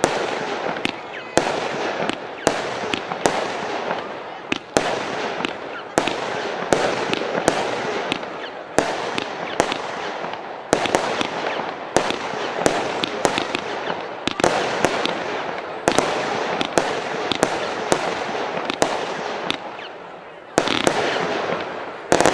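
Fireworks going off: a firework battery firing a rapid string of sharp bangs, about two to three a second, with crackling between them. Near the end the bangs give way to a steady loud hiss.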